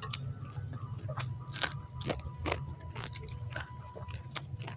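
Close-miked chewing of bakso urat, a tendon-studded beef meatball: a dozen or so sharp, irregular wet clicks and smacks of the mouth, over a steady low hum.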